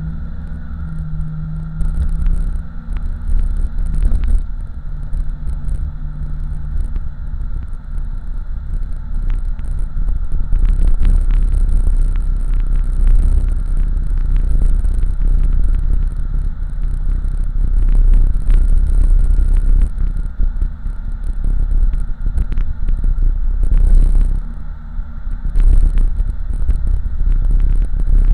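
Cabin sound of an LS-swapped 1987 Oldsmobile Cutlass's 5.3-litre V8 and exhaust while cruising, with road and tyre noise. A steady low drone at first, then a louder rumble from about ten seconds in, with scattered knocks and rattles.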